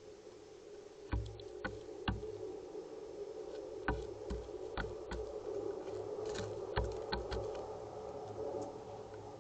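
Irregular sharp taps and knocks, each with a low thump, as animals peck and hop on a feeder close to the camera's microphone, over a steady low hum.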